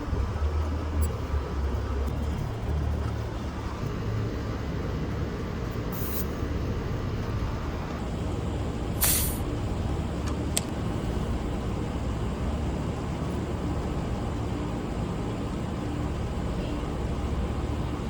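A steady low machine hum starts abruptly and runs on. Two short hisses of gas come about six and nine seconds in, the second louder, with a small click shortly after.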